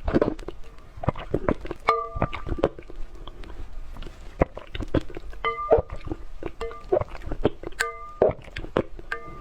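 Wet clicking and crunching of an egg being chewed, many sharp crackles throughout. Short steady notes break in about six times.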